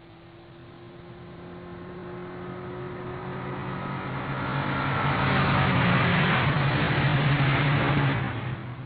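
A motor vehicle's engine and road noise growing steadily louder over about five seconds, then holding loud before easing near the end, as of a vehicle approaching and passing close on the road.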